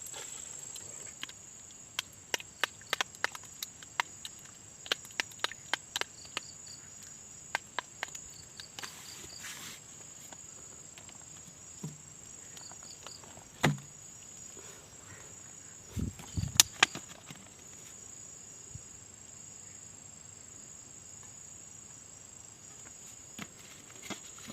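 Insects trilling steadily on one high note. Over this come a quick run of sharp clicks and taps in the first ten seconds and a few louder knocks a little past the middle.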